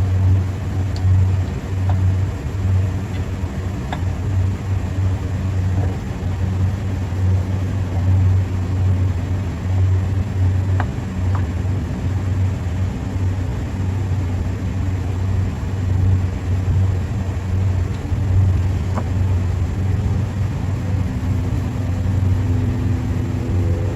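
Steady low machinery hum, loud and rumbling, with a few faint light ticks over it.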